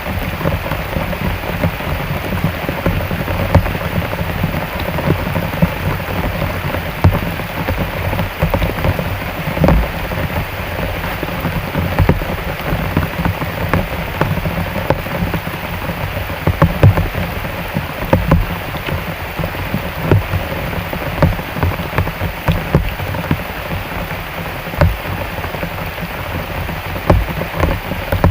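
Heavy rain pouring down steadily, with a dense patter of individual drops hitting surfaces close by.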